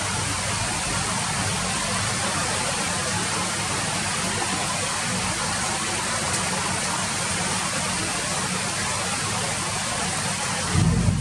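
Steady rain falling, a dense even hiss with a low rumble underneath; near the end the rumble briefly swells louder.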